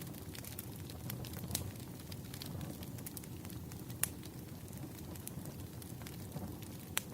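Campfire burning: a steady low rumble of flames with scattered crackles and pops, a sharper pop about four seconds in and another near the end.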